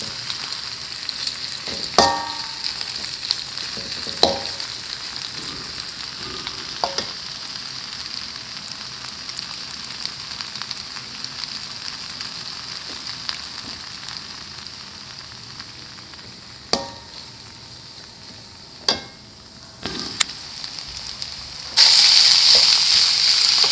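Mie goreng ingredients stir-frying in hot oil: a steady sizzle broken by about six ringing clanks of a utensil against the pan. Near the end the sizzling suddenly turns much louder, as something fresh goes into the hot oil.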